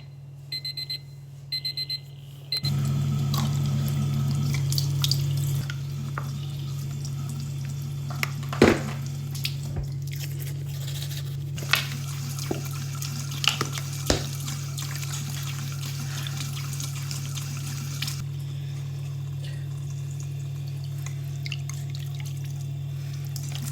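Digital alarm clock beeping in two quick groups of short high beeps. About two and a half seconds in, running water starts, with a steady low hum under it and a few clicks and knocks. The water stops about eighteen seconds in, while the hum carries on.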